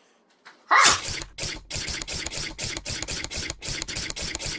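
The blade of a large prop scythe sawing back and forth across the taped seam of a cardboard box. It makes a quick, even series of rasping scrapes, about five strokes a second, starting about a second in.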